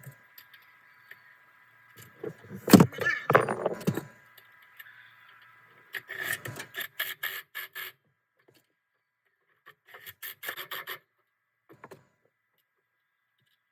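Hand-tool work on the car: a loud metal clank with some clatter about three seconds in, then two runs of quick, even strokes, about four or five a second.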